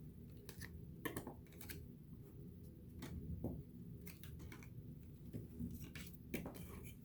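Trading cards being flipped through by hand: faint, irregular slides and clicks of card stock, a few each second.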